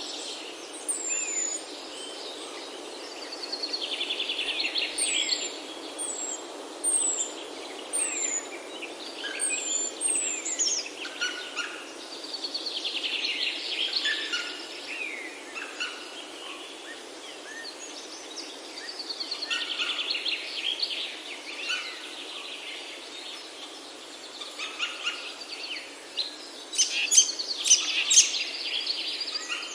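Several songbirds singing: short high whistled notes sliding downward about once a second over the first ten seconds, and louder rapid trilling songs that come back every several seconds. A steady soft hiss runs beneath.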